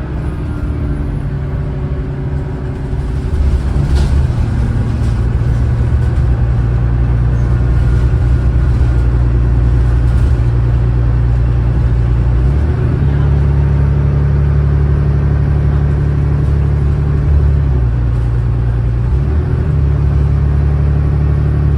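Cummins ISLe diesel engine of an Alexander Dennis Enviro500 double-decker bus running hard at high revs. It gets louder about three seconds in, and its pitch steps abruptly about halfway through and again near the end.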